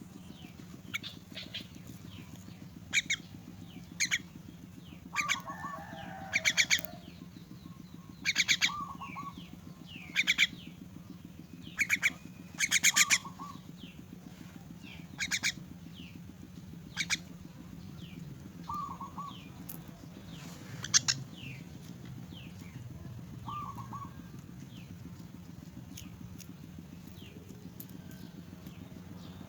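Young myna birds giving harsh, rasping begging calls in short bursts every second or two, with quieter short chirps between them, over a steady low hum.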